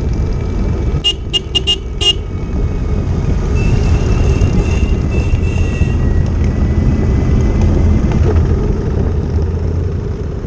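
Motorcycle engine running with a steady low rumble. A horn gives four quick beeps about a second in, then a longer, fainter horn note a couple of seconds later.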